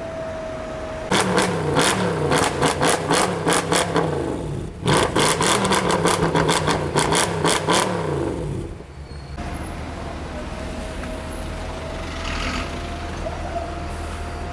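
A tuned performance car's engine is revved hard in quick repeated blips, in two runs of about three to four seconds each, with sharp cracks through the exhaust. It then settles to a steady idle.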